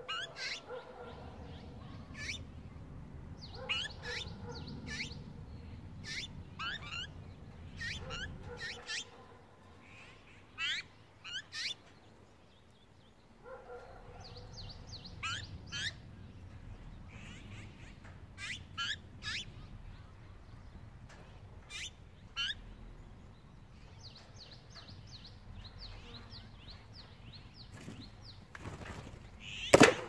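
Wild birds chirping again and again in short, thin, rising calls over a low rumble. Just before the end, one loud sharp snap as the wire-mesh cage trap's lid drops shut.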